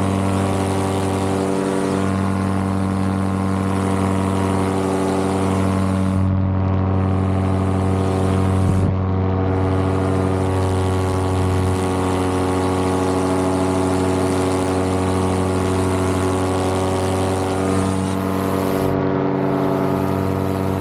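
Vittorazi Moster 185 single-cylinder two-stroke paramotor engine running steadily under power, its belt reduction drive turning the propeller, with a constant rushing hiss over it.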